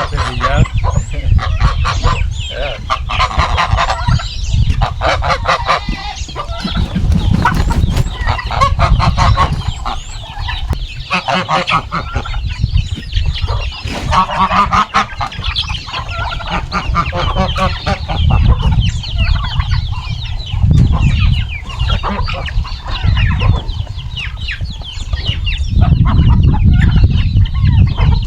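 A flock of chickens clucking and calling continuously, many short overlapping calls, over a low rumble.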